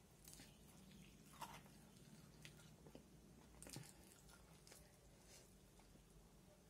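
Very faint sounds of eating by hand: chewing, with a few scattered soft clicks as fingers work biryani in a steel tiffin box. A faint low hum sits underneath.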